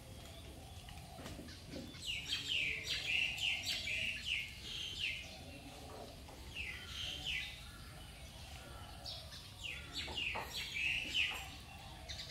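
Small birds chirping: bouts of short, quickly repeated falling notes, several times.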